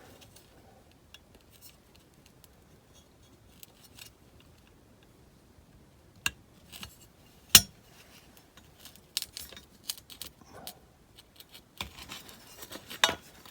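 Scattered small clicks and taps of a small screwdriver against a die-cast model car as a headlight lens is pushed out of the body. The sharpest click comes a little past halfway, and a quick run of small clicks follows near the end.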